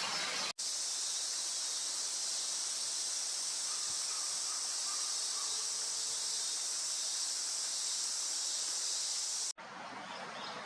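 Dense, steady chorus of cicadas, a high shrill hiss that starts suddenly just after the beginning and cuts off abruptly about a second before the end. Quieter outdoor ambience lies on either side.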